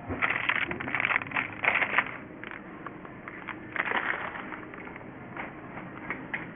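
Crunching and scraping in snow: a quick series of short, noisy strokes in the first two seconds, another cluster about four seconds in, and fainter scattered ones after.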